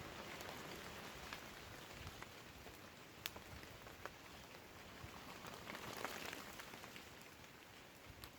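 Light rain falling: a soft, steady hiss with scattered single drops tapping, one sharper tap a little past three seconds in, and the hiss swelling briefly around six seconds in.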